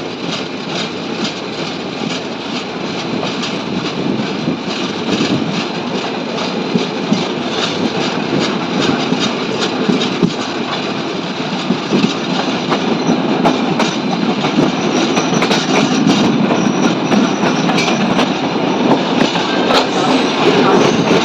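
Passenger train cars rolling through a railway curve, the wheels clicking rhythmically over the rail joints, with a faint high wheel squeal from about 13 to 17 seconds in; the sound grows slowly louder.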